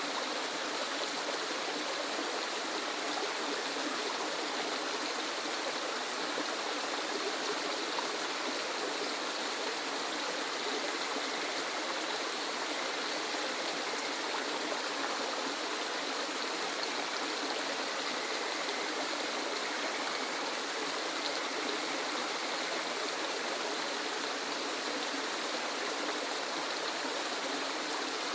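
Waterfall: a steady, unbroken rush of falling water, hissy and even, with little deep rumble.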